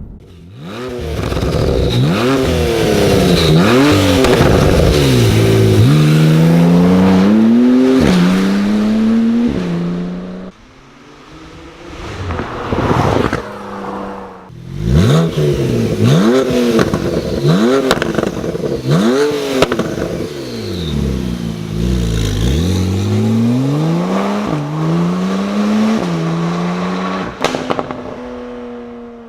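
Porsche 991 Turbo's twin-turbo flat-six revving through an iPE valvetronic exhaust, in repeated quick blips and longer climbs whose pitch rises and falls. There is a dip in level about ten seconds in and a sharp crack or two.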